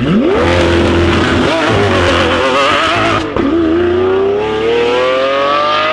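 Lamborghini V12 engine revving sharply and holding high revs. About halfway through, the pitch drops suddenly and then climbs slowly and steadily as the car accelerates.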